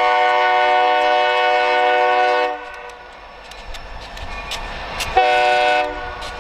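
Air horn of an EMD SD40 diesel locomotive sounding a chord: one long blast of about two and a half seconds, then a short blast near the end, in the pattern of a grade-crossing warning, with the train running between.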